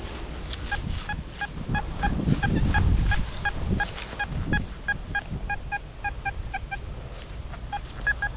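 XP Deus metal detector sounding a long run of short, identical beeps, about three or four a second, pausing briefly near the end before resuming, over wind rumbling on the microphone.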